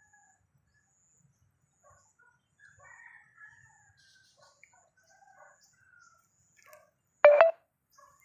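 Faint outdoor bird chirping with a faint high note repeating about once a second, then about seven seconds in a short, loud two-part bird call.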